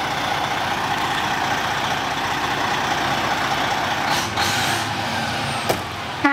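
Moving truck's engine running steadily, with a short hiss about four seconds in.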